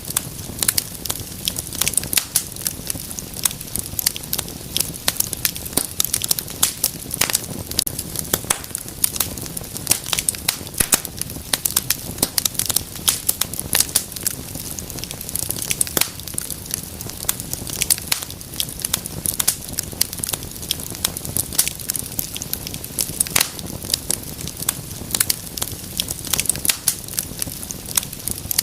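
Wood fire burning in a fireplace, with dense, irregular crackles and pops over a steady low rumble of flames.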